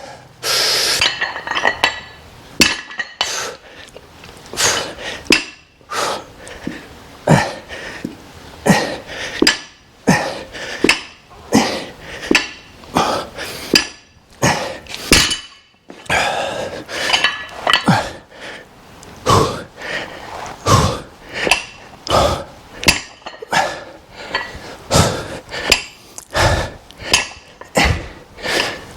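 Metal dumbbell clinking and knocking again and again during a set of one-arm dumbbell rows, about one sharp knock every second.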